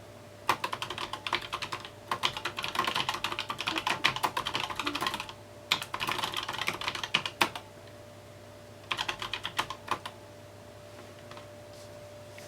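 Typing on a mechanical keyboard: rapid runs of keystroke clicks in four bursts, with short pauses between them and a longer quiet spell after the last burst, about ten seconds in.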